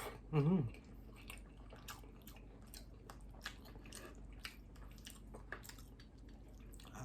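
A person chewing food close to the microphone, with many small clicks and ticks of eating throughout. A brief hummed vocal sound comes about half a second in.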